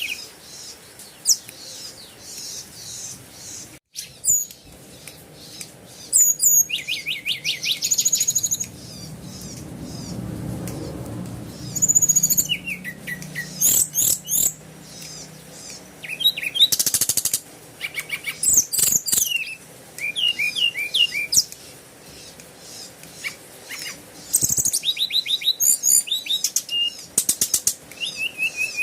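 Birds chirping, in quick runs of high sweeping notes and rapid trills with short pauses between them.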